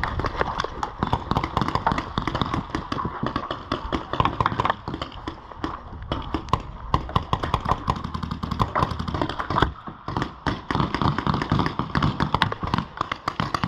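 Paintball markers firing in a dense, irregular run of sharp pops and clicks, easing briefly about ten seconds in.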